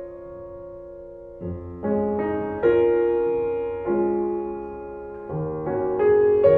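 Slow piano music: chords struck every second or so, each ringing on and fading before the next.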